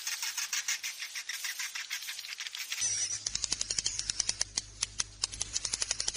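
Swiftlet roosting-call recording: a dense, rapid chattering of many swiftlets' chirps and clicks. About three seconds in the recording changes, a low steady hum comes in underneath and the chirps become more spaced out.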